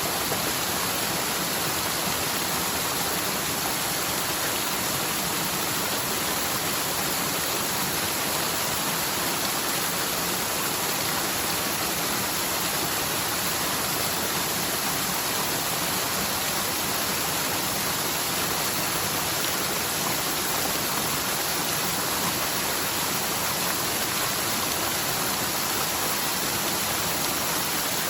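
Mountain forest stream in spate after a typhoon's heavy rain, its water rushing steadily down the slope.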